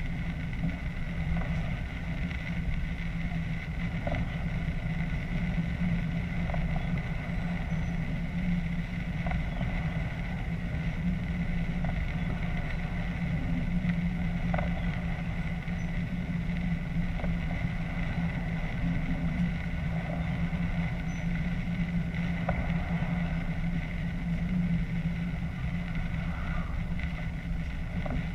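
Steady running noise of a diesel multiple unit heard from its cab while under way: a constant low hum with a thin steady whine above it. Faint short ticks come every two to three seconds.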